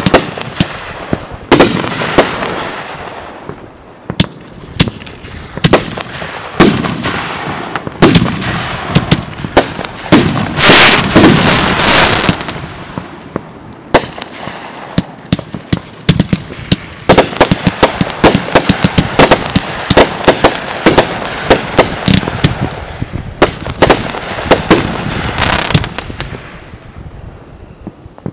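Aerial fireworks bursting overhead, a long series of sharp reports in quick succession. A dense rush of small pops comes about ten seconds in, a steady run of rapid bangs follows, and the reports thin out near the end.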